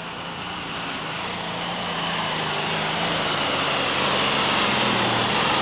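Allis-Chalmers D21 super stock pulling tractor with four turbochargers running at full power under load, its engine noise with a steady high whine growing steadily louder as it comes down the track.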